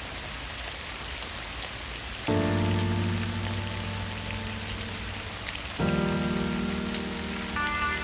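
Steady rain. About two seconds in, slow sustained music chords come in over it and change twice.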